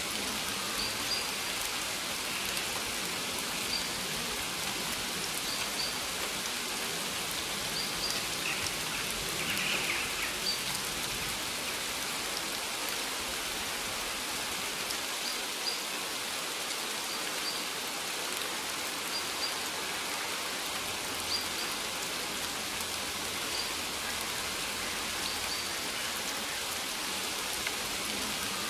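Steady rain falling on a maize field, an even hiss of drops on the leaves with small irregular taps. Short high chirps recur faintly about every two seconds.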